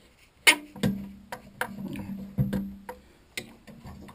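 A run of sharp, irregular knocks and clanks, the loudest about half a second in, over a faint steady low hum: tools and parts being handled while a milling machine is set up for a cut.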